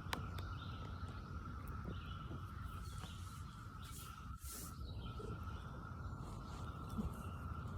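Distant chorus of Brood X periodical cicadas: a steady, unbroken high drone over a low background rumble.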